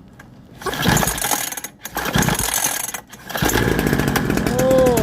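Small two-stroke weed-eater-type engine on a cheap dirt bike being pull-started: three pulls on the recoil starter, the third one longest, as the engine fires briefly near the end before stopping.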